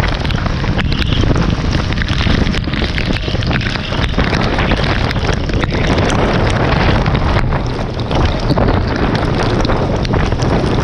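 Strong wind buffeting the microphone of a motorcycle riding through a rainstorm, a loud, steady rushing noise with many short sharp ticks of rain striking throughout.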